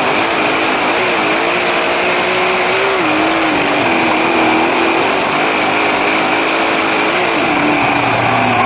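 Race car engine running on track, its pitch rising and falling as the driver lifts and accelerates through the laps, over a steady high whine and a rushing noise.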